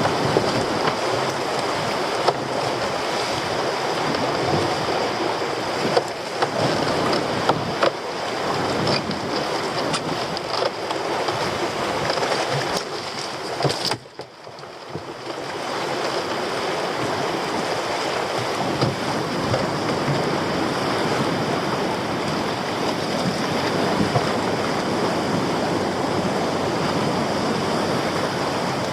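Heavy sea swell surging and breaking as surf, with wind buffeting the microphone and a few sharp knocks. The sound drops away suddenly for about a second halfway through, then builds back.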